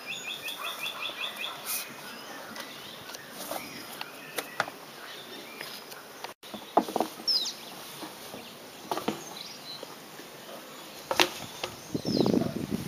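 Outdoor ambience of manual trench work: a bird's rapid chirping trill for the first second and a half and a couple of short chirps later, with scattered sharp knocks from handling tires and tools, and a louder rustling near the end.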